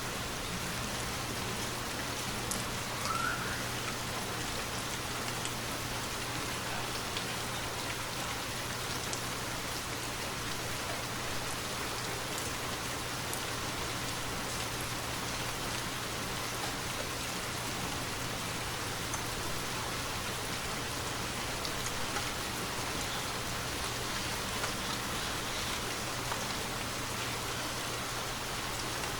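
Steady rainfall, a continuous even hiss, with scattered individual drops ticking close by.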